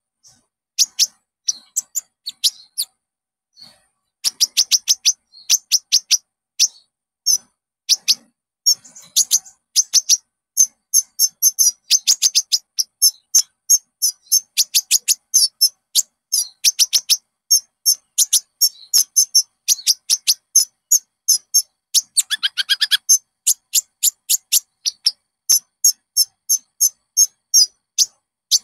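Olive-backed sunbird (konin) singing: long runs of rapid, high, sharp chirps, with a brief buzzy trill a little after two-thirds of the way through. This is a lure recording played to set caged konin singing.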